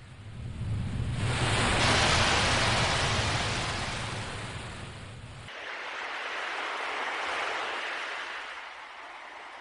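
Ocean waves washing in: one wave builds to a peak about two seconds in and slowly recedes, then a second, lighter wave rises and falls in the second half.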